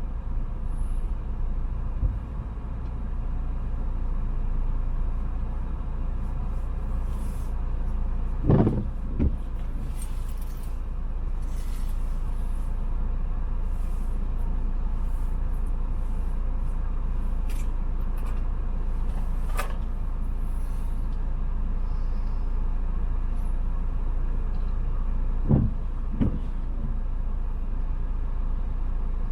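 Car on the move: steady low engine and road rumble, with two pairs of short low thumps, one about nine seconds in and one near the end.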